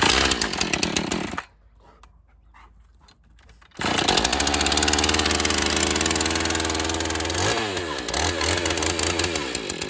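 Chainsaw engine runs briefly and stops about a second and a half in, then starts again about four seconds in and runs steadily at high speed, with a short dip in engine pitch that recovers about seven and a half seconds in.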